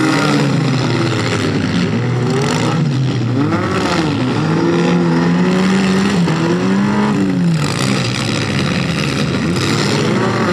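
Several demolition derby cars' engines revving up and down at once, with a few sharp bangs.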